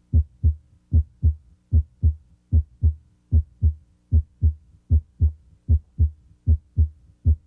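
Human heart sounds at the mitral area: a regular lub-dub of paired thumps, about 75 beats a minute. The first sound of each pair (S1, from closure of the mitral valve) is louder than the second (S2), as is usual at the mitral area.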